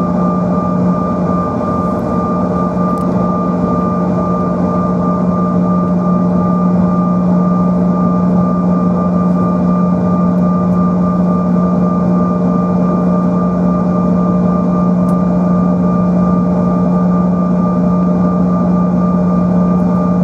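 Cabin sound of a Bombardier CRJ-900's rear-mounted General Electric CF34 turbofan engines running: a steady drone made of a strong low hum and a few fixed higher whines over a rushing noise.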